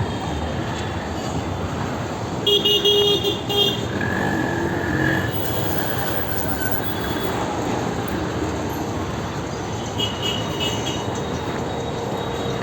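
Busy street traffic, a steady rumble of engines and tyres, with vehicle horns honking: a loud double honk about two and a half seconds in, and shorter toots later, one near the end.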